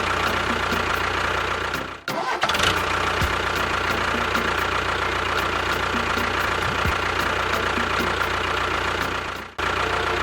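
Engine running steadily, broken by two short dropouts: one about two seconds in and one near the end.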